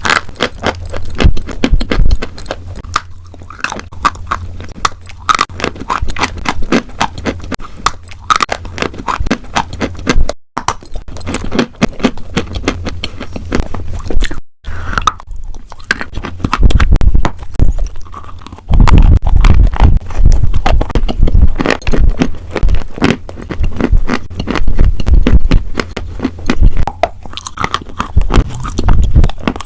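Close-miked chewing of crunchy food: a dense run of sharp crunches and mouth clicks, growing heavier and louder about two-thirds of the way through.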